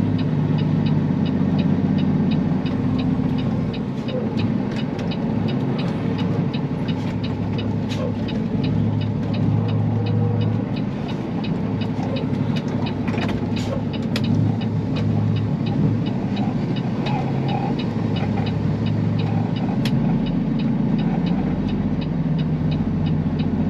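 Peterbilt semi truck's diesel engine running at low speed while the loaded truck is manoeuvred, with a regular light ticking throughout. The engine note deepens about twenty seconds in.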